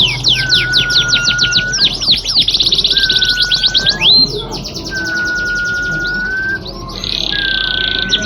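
Domestic canary singing fast rolling trills of high sweeping notes. A long, steady lower whistle recurs about every second and a half.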